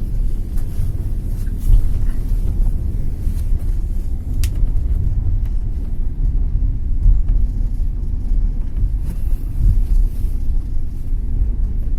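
Passenger train running, its wheels rumbling steadily on the track, with a sharp click about four and a half seconds in.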